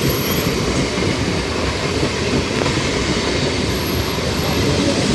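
Train running along the rails past the platform: a steady, loud rumble of wheels and carriages.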